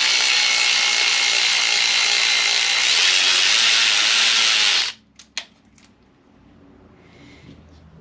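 Snap-on cordless electric ratchet running, a steady motor whine that rises slightly in pitch as it spins out a bolt. It cuts off abruptly about five seconds in, followed by a couple of light clicks.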